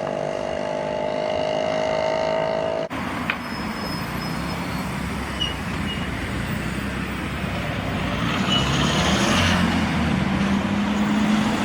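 Classic car engines running in street traffic. About three seconds in, a steady engine note cuts off abruptly. Near the end a low engine note rises slowly as a car pulls away.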